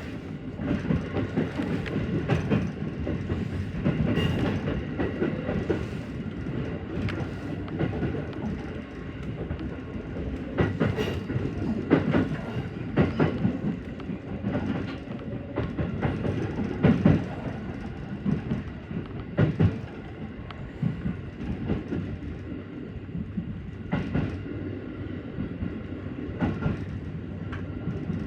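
JR Central 313-series electric train running, heard from inside the leading car: a steady rumble of wheels on track with irregular sharp clacks as the wheels pass over rail joints.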